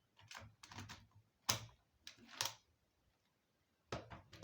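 Laptop battery pack being fitted into a Dell Latitude E6440: a few irregular plastic clicks and knocks, the loudest about a second and a half in, another cluster near the end.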